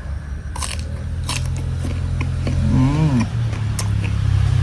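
Crisp bites and chewing of raw fruit such as green mango or hogplum, with sharp crunches, over a low engine rumble that grows steadily louder as a motor vehicle draws near.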